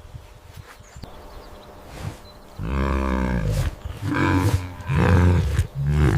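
A large animal's deep calls: after a quiet start, one long call of about a second followed by three shorter ones.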